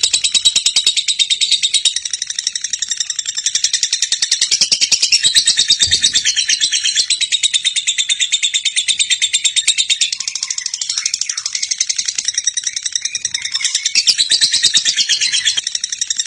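Lovebird singing a long, unbroken, very fast high chatter, the trill that keepers call "ngekek panjang".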